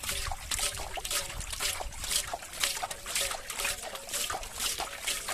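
Shallow water sloshing and splashing in quick repeated strokes, about two or three a second, as hands work through it to catch fish.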